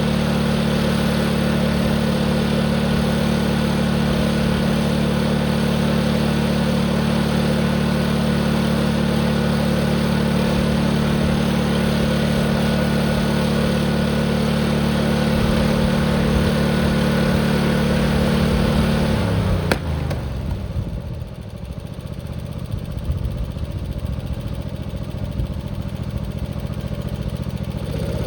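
Tractor engine held at full throttle, running steadily at high speed. About two-thirds of the way through, its pitch falls away and it runs lower and rougher. Right at the end it starts to rise again.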